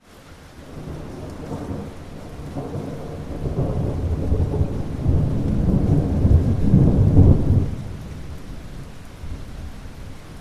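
Rain falling steadily, with a long rolling peal of thunder that builds over several seconds, peaks and then dies away about two-thirds of the way through.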